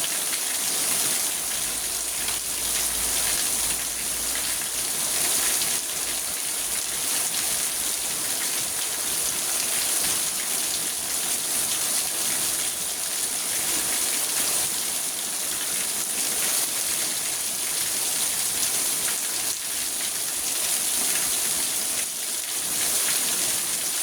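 Steady rain on a car's roof and windows, heard from inside the car, as an even, continuous patter.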